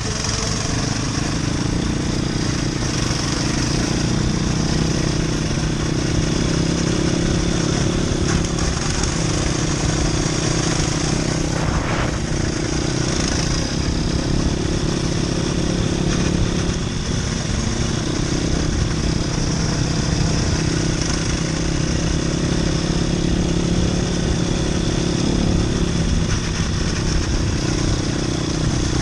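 Motoland RT200 motorcycle's single-cylinder engine running at a fairly steady speed, with a brief drop in engine note about 17 seconds in.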